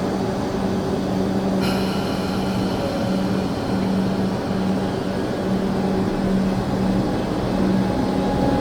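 Electric suburban train running at the station: a steady hum with a noisy rumble, and a higher ringing tone that sets in suddenly about a second and a half in and fades soon after.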